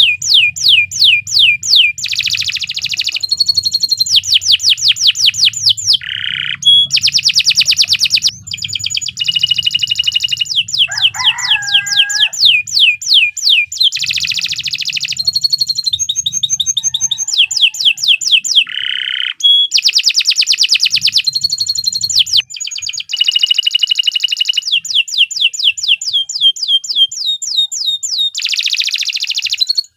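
Domestic canary singing a long, continuous song of rapid trills: fast runs of repeated downward-sweeping notes and rolls, switching to a new trill pattern every second or two, with a faint low hum underneath.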